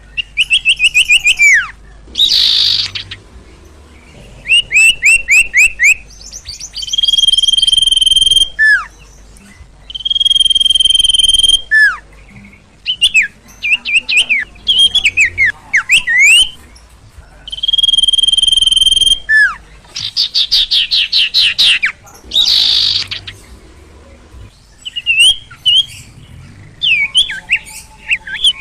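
Sirtu bird singing loudly and excitedly in repeated bouts: fast runs of chirps, held clear whistled notes, sharp downslurred calls and a couple of harsh rasping bursts, with short pauses between phrases.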